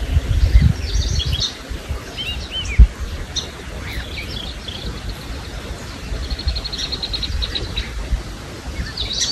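Songbirds singing and chirping, with a fast, even trill of high notes about two-thirds of the way through, over a low rumble on the microphone. A single sharp thump about three seconds in is the loudest sound.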